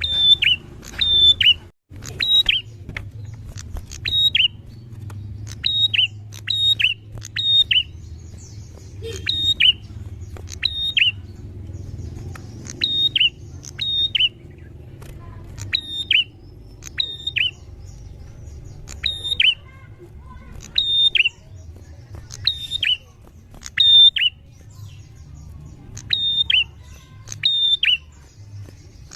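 A prinia (prenjak) calling over and over: sharp, high notes that drop quickly in pitch, given in quick runs of two or three, with a steady low rumble underneath.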